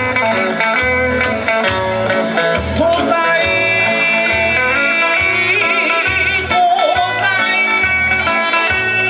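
Kawachi ondo music: electric guitar playing a bending melodic line over a steady taiko-style drum beat.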